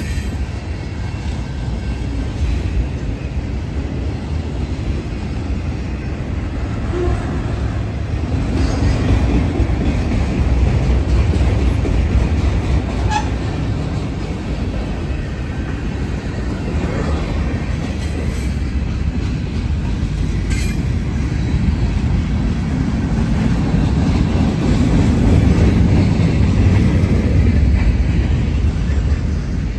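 Freight train cars (tank cars, autoracks, boxcars and covered hoppers) rolling past at trackside: a steady, loud rumble of steel wheels on rail that swells twice, with scattered clicks over the rail.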